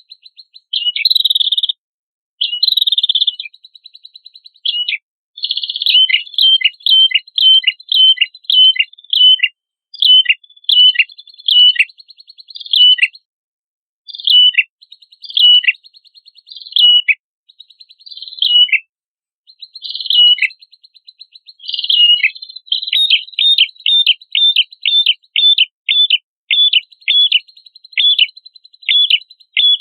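Prenjak kepala merah singing. It opens with a few harsh buzzy phrases, then repeats sharp, high downward-sweeping notes about two a second over a faint buzzy trill. The notes come quicker, about three a second, in the last third.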